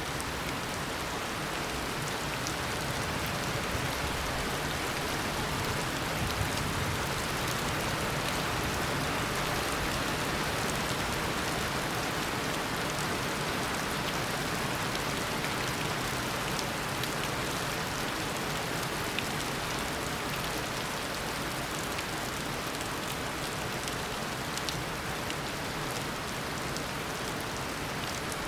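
Heavy tropical rain falling steadily, a dense even hiss with scattered drops pattering on surfaces.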